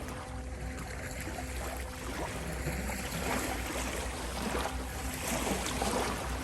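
Ocean waves washing on a shore, one wave swelling louder through the middle of the stretch, over a steady sustained 528 Hz tone.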